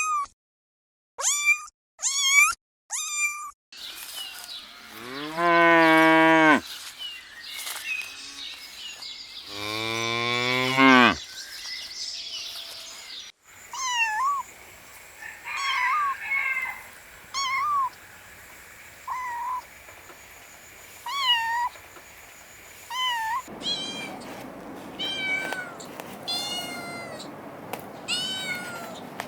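A series of animal calls: a few short high-pitched squeals at the start, then two long, low calls, then many short chirping squeaks and, near the end, higher whining calls.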